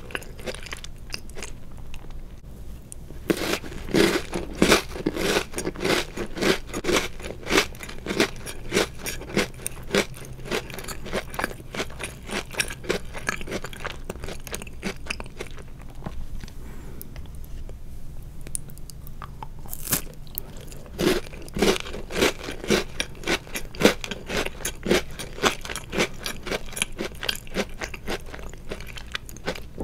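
Close-up chewing of chocolate-covered Oreo cookies: two spells of rapid crisp crunching, a few seconds in and again about twenty seconds in, with softer chewing between them.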